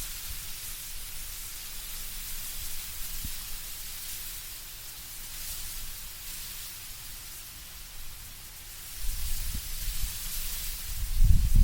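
Wind blowing through autumn trees, a steady hiss of rustling leaves that swells and eases. A low rumble of a stronger gust builds about nine seconds in.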